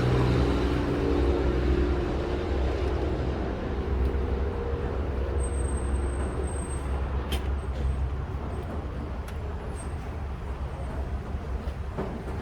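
A motor vehicle engine running nearby: a steady low rumble whose higher hum fades away over the first few seconds. A few sharp clicks sound about seven seconds in.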